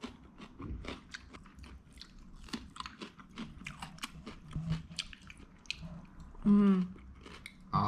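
A person chewing and biting into tacos close to the microphone: a dense run of small clicks and crunches. A brief vocal sound comes about six and a half seconds in.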